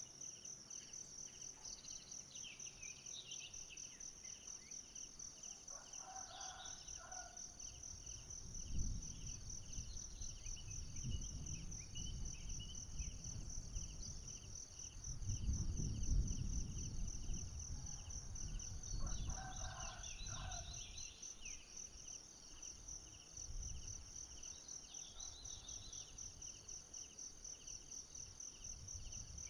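Forest insects trilling in a steady, high, pulsing chorus, with a few short bird chirps. A brief lower animal call comes about six seconds in and again near twenty seconds. A low rumble swells in the middle and is loudest around sixteen seconds.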